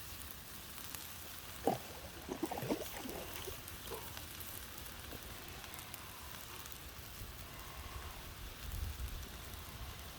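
Pan of cabbage and bratwurst cooking down in beer over a campfire, giving a steady sizzling hiss, with a few short knocks about two seconds in.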